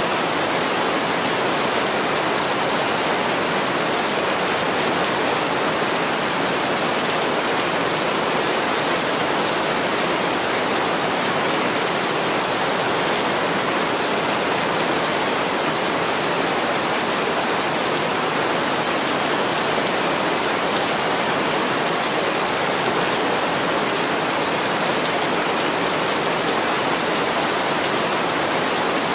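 Heavy rain falling on a window pane: a steady, even hiss of rain that never breaks or changes.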